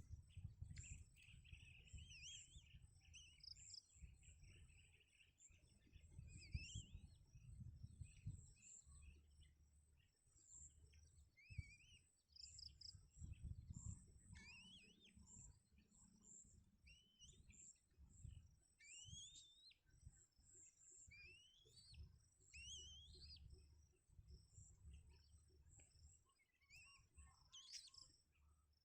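Faint bird chirps: many short, rising calls scattered irregularly throughout, over a low uneven rumble.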